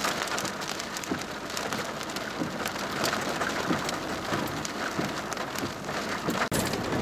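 Heavy rain pelting the vehicle, a steady hiss of rain with many separate drops striking.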